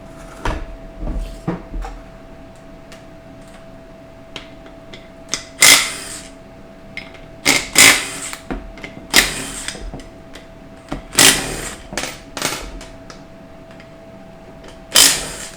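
A power tool run in about seven short bursts, taking the pan bolts out of a 4L60E automatic transmission, with a few small tool clicks early on. A faint steady hum runs underneath.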